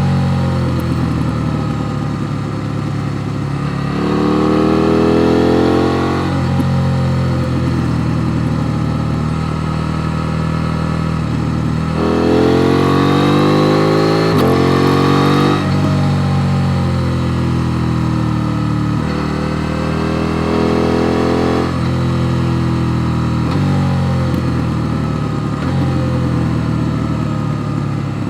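KTM Duke 890 R parallel-twin engine pulling hard, its pitch climbing steeply twice (about four seconds in and again about twelve seconds in), each climb cutting off abruptly on a shift or a closed throttle. In between, the engine runs lower, with its pitch falling as the bike slows.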